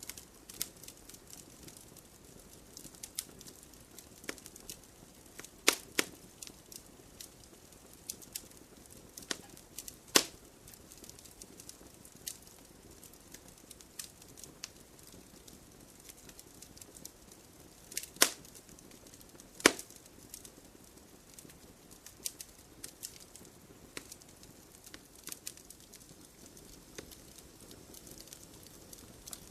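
Wood campfire crackling, with scattered sharp pops, the loudest about six, ten, eighteen and twenty seconds in, over a faint low rush of the flames.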